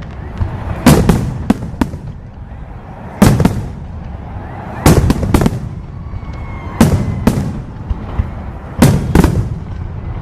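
Fireworks bursting overhead: sharp, loud bangs in quick clusters every second or two, each followed by a lingering low rumble.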